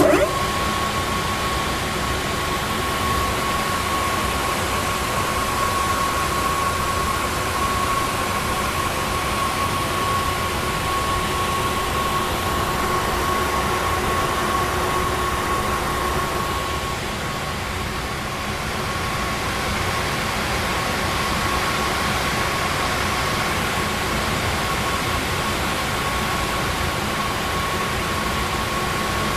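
Revent 624 rack oven's motor coming on with a brief rising whine, then running steadily: an even airy rush with a constant high whine over it.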